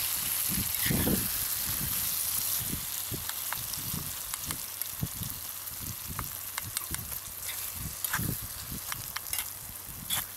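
Egg and drumstick curry sizzling in a metal pan as a spatula stirs it, with frequent light scrapes and knocks of the spatula against the pan.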